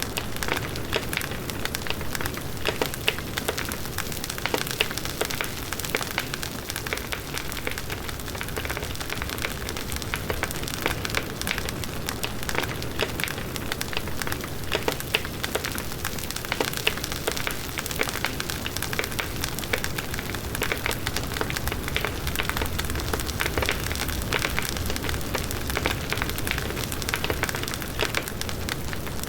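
Bonfire of burning wood crackling steadily, with many quick pops and snaps over the rush of the flames.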